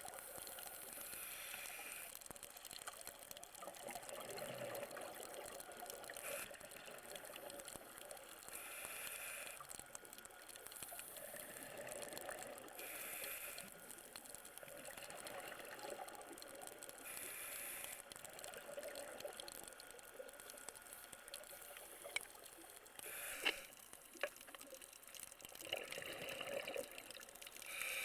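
Scuba diver breathing underwater through a regulator: a burst of exhaled bubbles about every four seconds, over a steady faint hiss. A couple of sharp clicks come about 23 seconds in.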